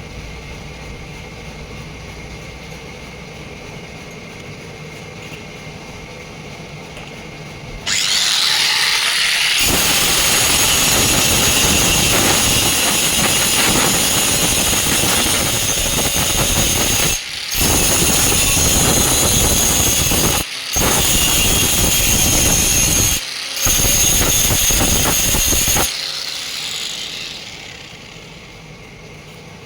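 A low machine hum, then about eight seconds in a high-speed power tool spins up and runs loud with a high whine. It stops for a moment three times and winds down near the end.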